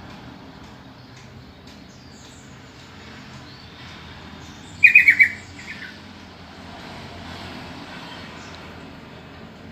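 Sooty-headed bulbul giving a quick burst of four or five bright, down-slurred call notes about halfway through, then one softer note, over faint chirping in the background.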